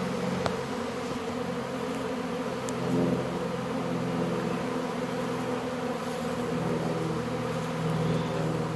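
Loud, continuous buzzing drone of a honey bee swarm in flight, thousands of bees around the hive, many wingbeat tones overlapping.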